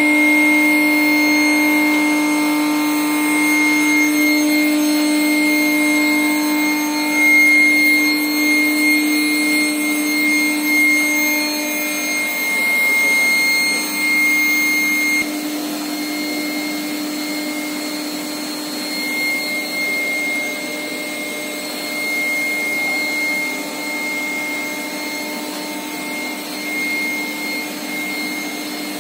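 Induction heating furnace for thick-wall steel pipe running, a steady electrical hum and high whine over machine noise. The low hum fades about twelve seconds in, and the whole sound drops a little in level about fifteen seconds in.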